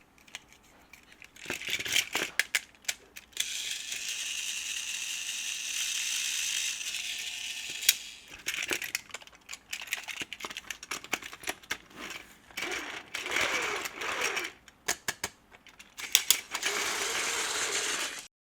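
Battery-powered Plarail toy trains running on plastic track, their small motors whirring steadily in two stretches, with many sharp plastic clicks and rattles in between. The sound cuts off abruptly near the end.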